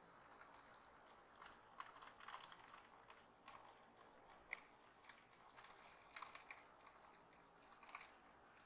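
Birds pecking and cracking seed at a feeder: faint, irregular clicks and taps, some in quick clusters, with one sharper click about four and a half seconds in.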